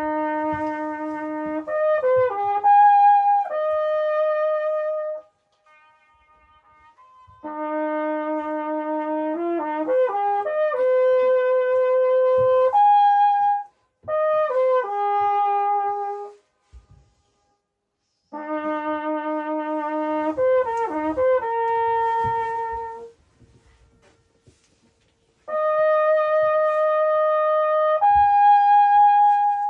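A trumpet plays slow phrases of held and stepping notes, each a few seconds long, with pauses between them. In the pauses the last notes come back faintly as an echo off the steep rock wall across the lake.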